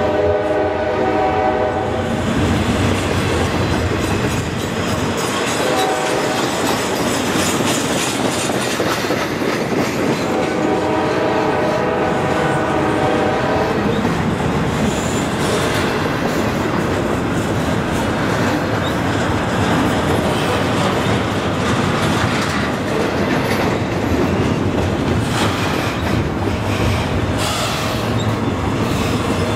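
Double-stack intermodal freight cars rolling past with a steady rumble and wheel clatter on the rails. A train horn sounds twice over it, once at the start for about two seconds and again about ten seconds in for some three seconds.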